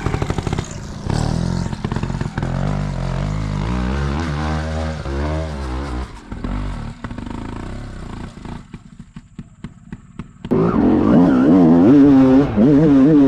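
Dirt bike engine revving up and down with the throttle. It drops away after about seven seconds to a few clattering ticks. Then, about ten seconds in, a bike engine revs loudly again.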